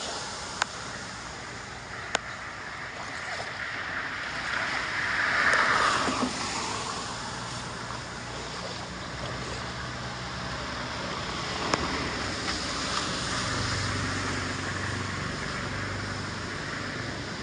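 Floodwater rushing steadily into a storm drain, with a few sharp clicks and a low hum joining about halfway through.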